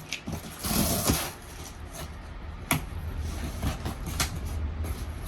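Packing tape being ripped off a cardboard shipping box by hand, with a short tearing rasp about a second in. Scattered light clicks and knocks of cardboard being handled follow over a low steady hum.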